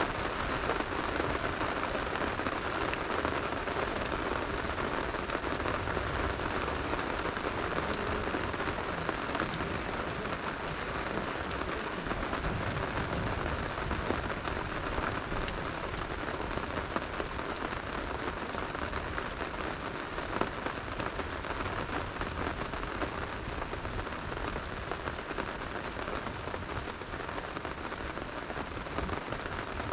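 Steady rain falling, with a few sharp pops and crackles from a campfire scattered through it.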